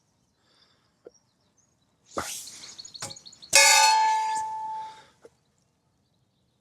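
A knock, then about a second later a loud metallic clang that rings on in several clear tones and fades over about a second and a half, from a metal object being struck while kindling is prepared for a Kelly kettle.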